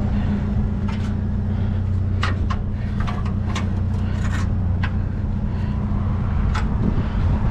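Truck engine idling with a steady low hum, with a handful of light knocks and clatters scattered through it, as of things shifting in a truck bed.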